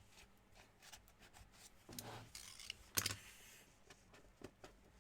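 Faint rustling and small clicks of trading cards and their packaging being handled, with a sharper click about three seconds in.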